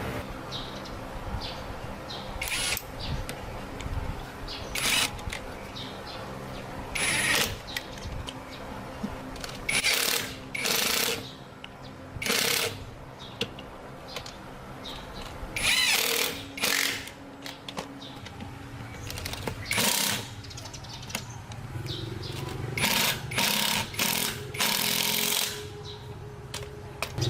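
Power tool run in about a dozen short bursts at irregular intervals, each lasting under a second, over a steady low hum.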